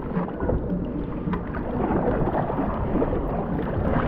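Wind buffeting the microphone: a steady rushing rumble, with water noise from the kayak on the river beneath it.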